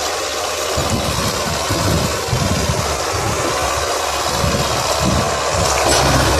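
Belarus 510 tractor's diesel engine running, its deep low rumble uneven at first and coming back full about five and a half seconds in.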